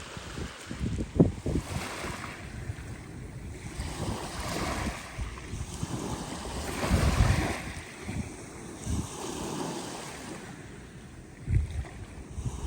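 Black Sea surf washing onto the shore in repeated swells, the strongest about seven seconds in, with wind buffeting the microphone.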